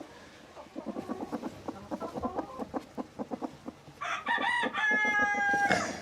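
Chickens clucking in quick, short notes, then about four seconds in a rooster crows once, a long held call that is the loudest sound and stops just before the end.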